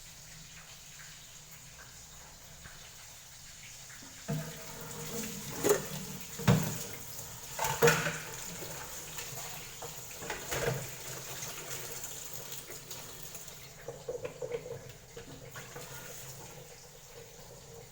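Water running from a kitchen tap, with several sharp clattering knocks in the first half and a few lighter clicks later.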